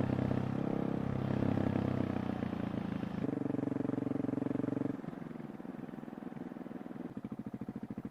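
KTM 690 SMC R single-cylinder engine running through a full titanium Tekmo exhaust with dB killer, held at raised revs and briefly higher, then dropping back to idle about five seconds in, with slow, distinct exhaust pulses near the end.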